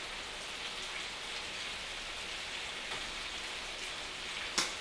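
Chicken pieces frying in chicken fat in a metal karahi pan: a steady, even sizzle. One short knock near the end.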